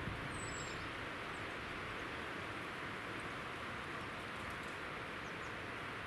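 A few faint, thin, high calls of small birds over a steady background hiss, with one short downward call about half a second in.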